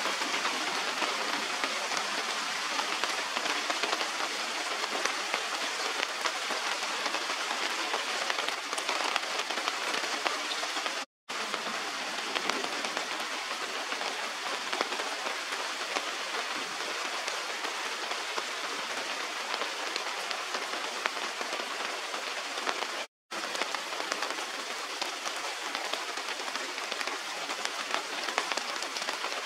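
Steady rain falling on leaves and water: a dense, even hiss with many small drop ticks. It cuts out twice for a split second.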